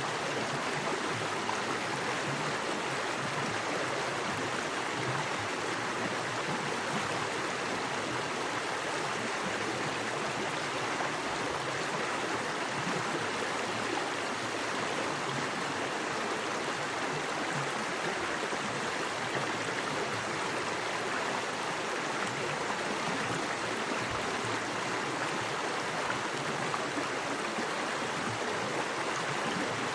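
Small forest creek rushing fast over rocks: a steady, even wash of moving water.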